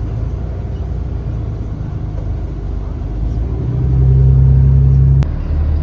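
A low, steady engine rumble with a hum, growing louder for about a second and a half near the end and dropping back with a click.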